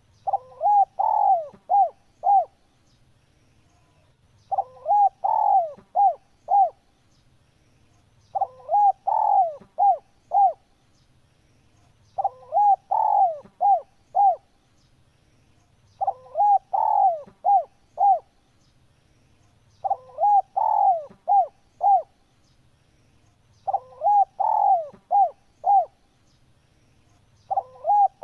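Spotted dove (tekukur) cooing: a phrase of about five coos, the later notes shorter and spaced, repeated about every four seconds.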